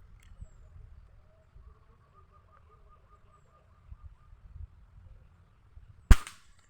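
Faint birdsong, including a short trill of evenly repeated notes, then about six seconds in a single sharp crack from an air rifle firing at a bird. The crack is the loudest sound and rings briefly.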